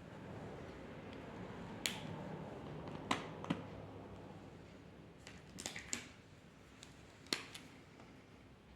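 Drawing tools being handled on paper: faint scratching with about eight sharp clicks and taps. Several of the clicks come close together a little after the middle.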